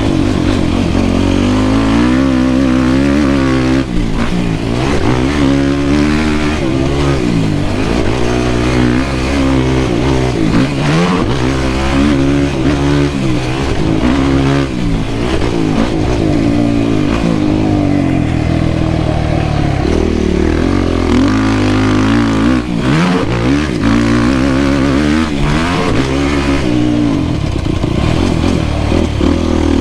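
Yamaha YFZ450R quad's single-cylinder four-stroke engine being ridden hard: revs climbing and dropping over and over through acceleration, shifts and braking.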